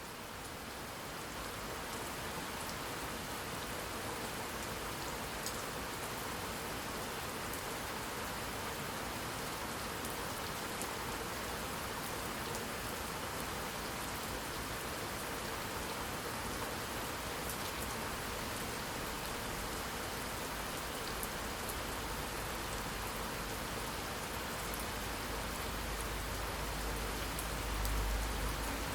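Steady rain falling, with scattered sharp drip ticks. A low rumble of thunder builds over the last few seconds.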